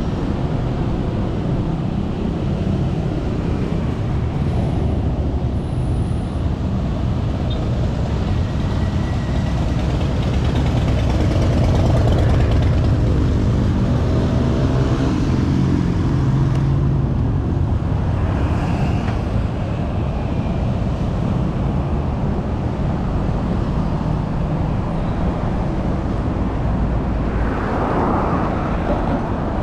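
Road traffic heard from a bicycle riding in city streets: a steady rumble of passing cars and other motor vehicles. It grows louder about twelve seconds in as a vehicle's engine passes close, and a brief hiss of noise comes near the end.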